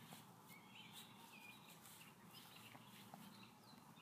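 Near silence outdoors, with a few faint, distant bird chirps.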